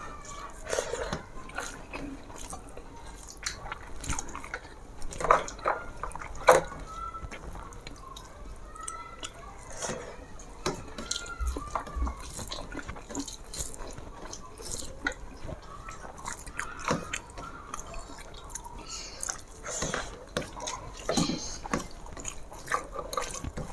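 Close-up eating sounds: irregular wet clicks, squelches and smacks of rice and fish curry being mixed and eaten by hand, with chewing.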